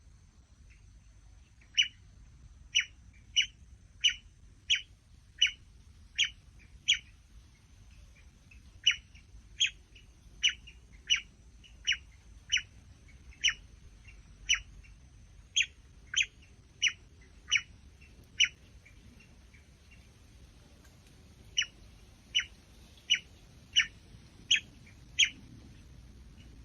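A bird chirping: single short, sharp call notes repeated about every half to one second in three runs, with two short pauses between them.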